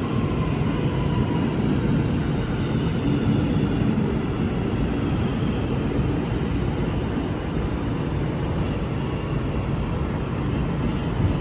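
Running noise heard inside an R211 subway car: a steady rumble of wheels on rail, with a faint electric motor whine slowly falling in pitch as the train slows.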